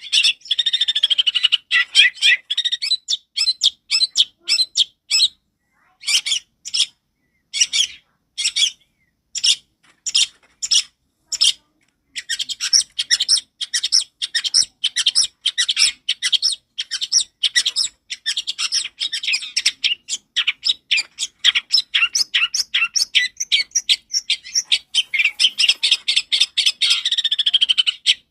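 Long-tailed shrike (cendet) singing loud, rapid strings of harsh chattering notes. For a stretch in the middle the notes slow to separate calls, about two a second, then the fast chatter comes back.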